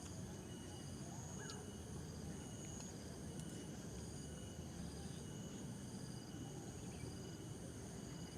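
Faint insects chirping in repeated pulses at several high pitches, over a low steady background noise.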